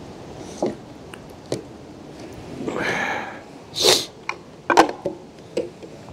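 A man sneezing once, a breathy intake just before a loud sharp burst about four seconds in, with a few sharp clicks around it.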